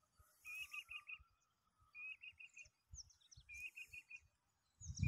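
Birds singing faintly: a short phrase of four quick notes repeats about every second and a half, over thin, higher chirps, with soft low thumps on the microphone.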